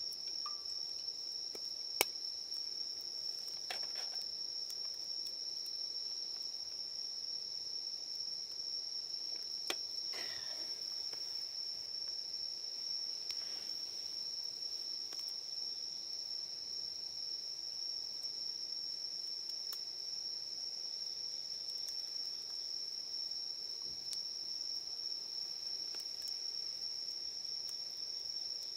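Night insects singing a steady, unbroken high-pitched trill, with a few sharp clicks, the loudest about two seconds in and another around ten seconds.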